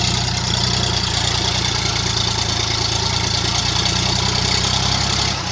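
Diesel tractor engine running loudly and steadily, with a constant low throb and no change in pitch.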